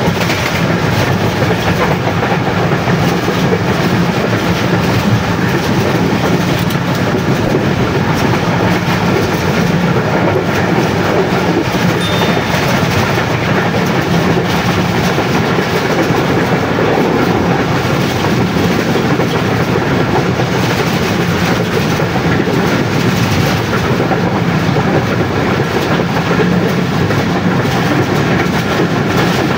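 Passenger train running at speed, heard from inside a coach by an open window: a steady loud rush of wheels rolling on the rails, with the clatter of rail joints.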